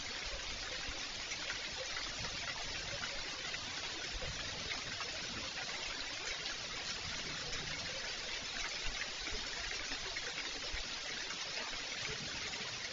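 Steady rain with running water: an even hiss and scattered ticks of drops.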